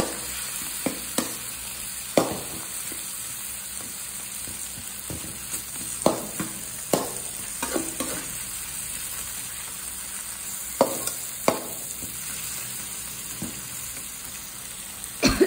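Onion, tomato and spice masala sizzling steadily in a metal kadai while a metal spoon stirs it, scraping and knocking against the pan at irregular moments, loudest near the end.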